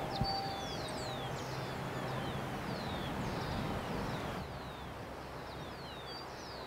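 Birds chirping: many short, quick downward-sweeping chirps from several birds, over a steady outdoor hiss.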